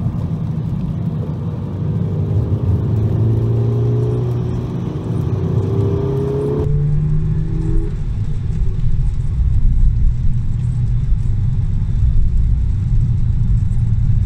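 Car engine heard from inside the cabin while driving on a wet track. For the first few seconds the engine note climbs in pitch several times as the car accelerates. About seven seconds in, the sound switches abruptly to a steadier, lower engine drone.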